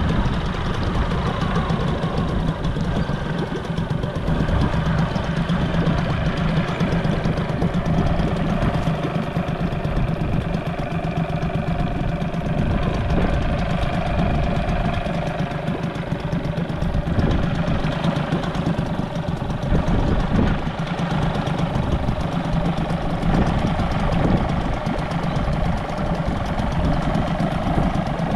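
4 hp Mariner outboard motor idling steadily during its run-in after a new water-pump impeller was fitted.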